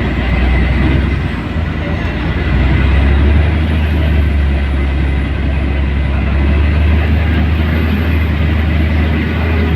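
Scania L113CRL bus's diesel engine running under way: a steady low rumble with road noise and a faint high whine that rises and falls.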